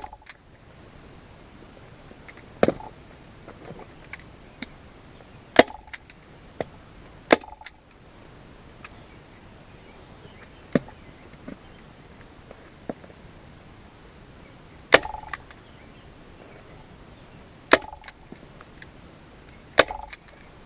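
Staple gun driving staples one at a time through a leather seat cover into a plastic ATV seat base, about eight sharp snaps a few seconds apart, with lighter handling clicks between them.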